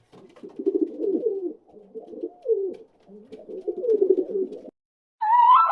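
Low cooing bird calls in three throaty phrases, cutting off suddenly about three-quarters of the way in. Near the end a different, higher call starts, stepping up in pitch in a repeating pattern.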